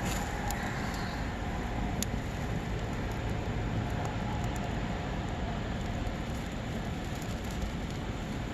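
Wood campfire burning with a steady rushing noise and a few sharp crackling pops, with dry tree bark catching and burning well.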